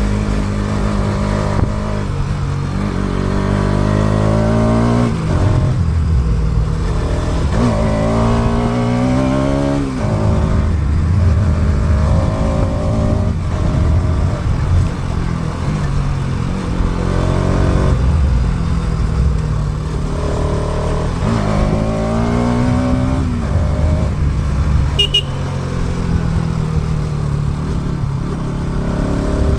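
Motorcycle engine under way, picked up by an action camera's built-in microphone: the engine note climbs several times as it accelerates and falls back each time, over steady wind and road noise. A very short high beep sounds once near the end.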